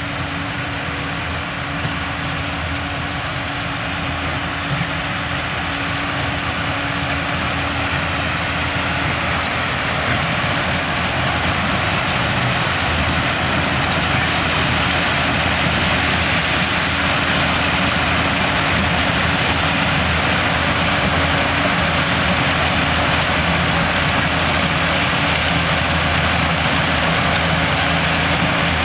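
Large diesel engine of heavy earthmoving machinery running steadily under work, growing louder over the first half.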